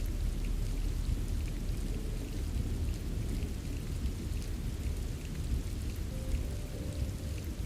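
Steady rain with scattered drop ticks over a deep continuous rumble like distant thunder. A faint soft held tone comes in near the end.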